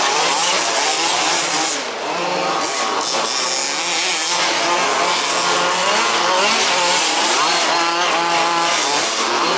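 Several 1/5th-scale RC off-road buggies' small two-stroke petrol engines racing together, their overlapping whines rising and falling as they rev through corners and straights.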